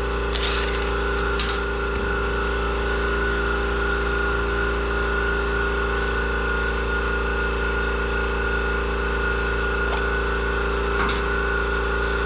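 Steady machine hum of a motor running in the workshop, with a few sharp clicks of hand tools on metal, one about half a second in, another at about a second and a half, and one near the end.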